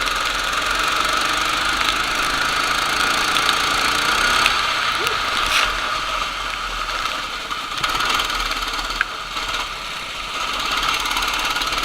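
Racing kart engines running with a steady, high-pitched drone.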